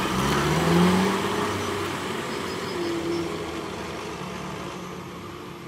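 Nissan Hardbody pickup's engine revving up briefly, rising in pitch about a second in, then fading steadily. The truck is running after a no-start fault.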